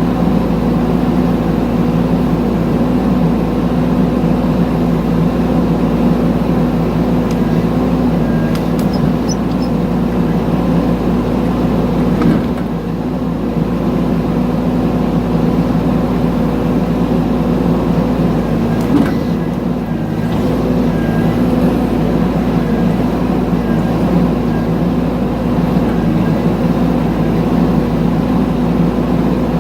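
Mini excavator engine running steadily at a constant speed, with brief small dips in level about twelve and twenty seconds in.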